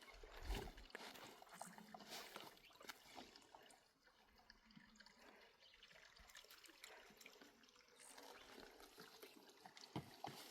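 Faint water dripping and trickling, with scattered small drips and clicks.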